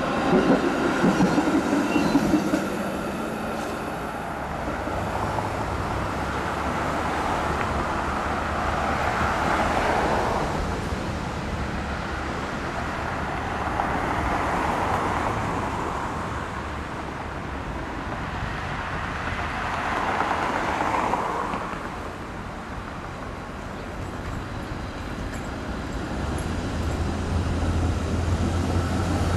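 TTC streetcar running along the street with road traffic, the rolling and motor noise loud at first, then swelling and fading several times as vehicles pass, with a low steady hum building near the end.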